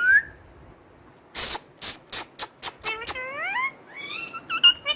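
Pet talking parrot vocalizing. It opens with a short rising whistle, then after a pause gives a run of sharp clicks that come faster and faster, followed by warbling calls that slide down and back up in pitch.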